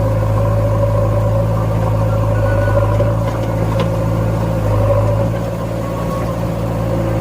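Sonalika DI 47 RX tractor's diesel engine running steadily, with a few faint clicks about three and a half seconds in.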